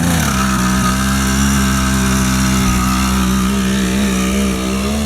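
80cc two-stroke engine of a motorized bicycle with an expansion-chamber exhaust, running at high revs. It holds a steady pitch and wavers a little near the end.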